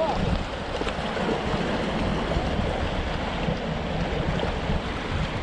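Strong wind buffeting the microphone with a low, ragged rumble, over the steady rush of waves washing against the shore.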